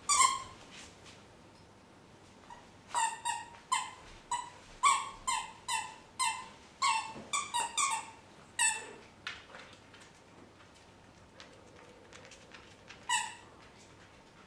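Dog yipping in play: a run of short high-pitched yips in quick succession, one at the start, a burst of a dozen or so in the middle, and a last one near the end.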